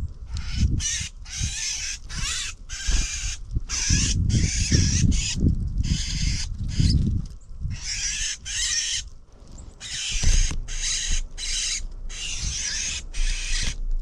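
Birds calling over and over in quick, short calls with brief gaps between them, over a low rumble.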